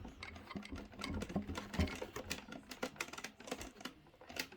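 Plastic fan parts being handled and fitted: the electric fan's blade cap going onto the propeller, giving irregular small clicks and taps.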